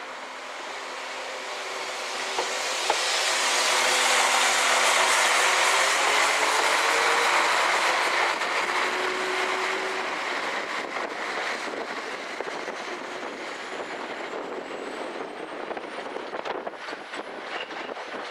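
Northern Class 195 diesel multiple unit passing and pulling away: its engine and running noise swells and then slowly fades. As it recedes, the wheels clatter with a run of sharp clicks over the pointwork.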